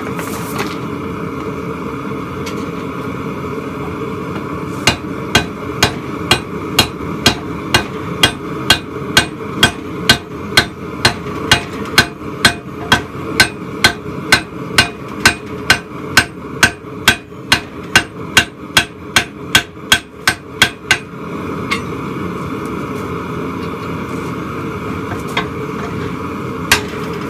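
Hand hammer striking hot steel on an anvil while forging a spike: a run of about forty ringing blows, two or more a second, that gets quicker near the end, then two single blows. A steady noise runs underneath.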